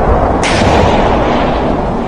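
Recorded war sounds: a continuous rumble of distant explosions and gunfire, with one sharp, loud blast about half a second in.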